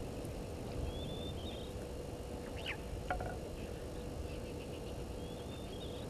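Short bird chirps about a second in and again near the end, with a brief falling call a little before the middle, over a steady low outdoor rumble and a faint steady hum.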